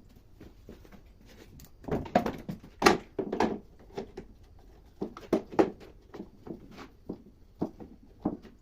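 Irregular knocks and clacks of clamps and wooden crossbars being fitted onto a solid-wood panel to press it, loudest in two clusters partway through.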